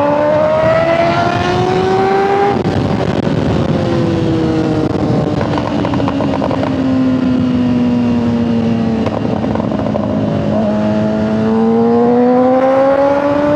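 Honda CBR600RR's inline-four engine running at high revs while riding, with wind rushing past. The pitch climbs for about two and a half seconds, falls slowly as the throttle eases, then climbs again in the last few seconds.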